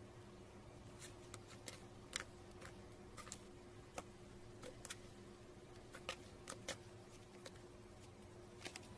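Slime being squeezed and poked by hand, giving irregular small clicks and pops, about fifteen over several seconds, over a faint steady hum.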